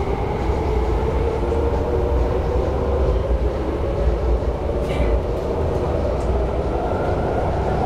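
Inside the car of an MTR SP1900 electric multiple-unit train pulling away: a steady low rumble of wheels on track, with a motor whine that rises slowly in pitch as it gathers speed. A short click sounds about five seconds in.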